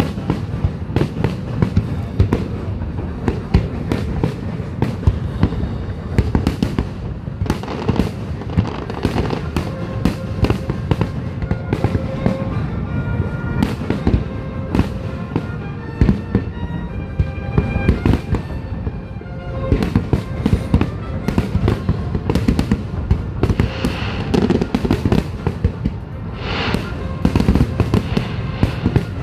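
Fireworks finale: a dense, continuous barrage of booms and crackles, one burst hard on another.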